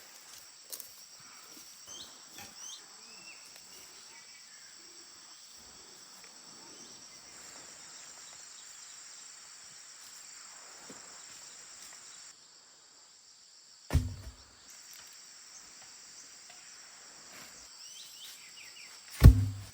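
Steady high-pitched chorus of insects, with two loud knocks: one about two-thirds of the way in and one near the end.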